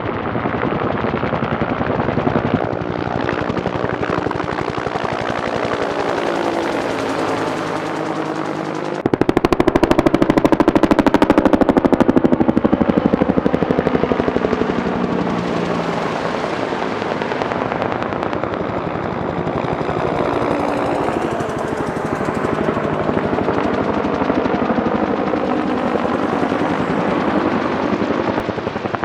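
Firefighting helicopter's rotor blades chopping rapidly and loudly, with the pitch sliding as it moves. It gets suddenly louder about nine seconds in as it comes close.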